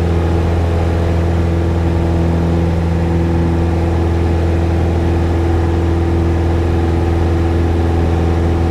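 Single-engine Cessna's piston engine and propeller droning steadily in the climb after takeoff, heard from inside the cockpit.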